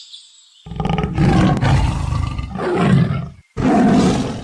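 Big cat roaring twice: a long rough roar starting under a second in and lasting nearly three seconds, then a second roar starting about three and a half seconds in.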